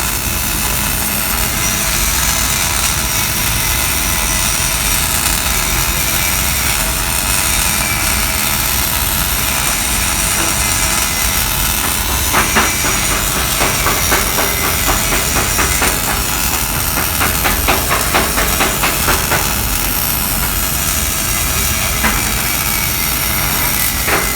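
Electric welding arc laying a vertical-down bead: a steady hiss with a run of irregular crackling pops from about halfway in.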